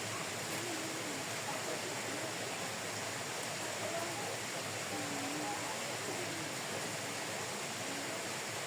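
A steady, even rushing noise, with faint wavering voices in the background now and then.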